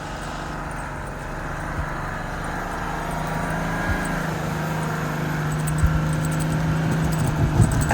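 Four-wheel-drive vehicle's engine running steadily while driving through deep snow, its hum slowly getting louder, with a few light clicks near the end.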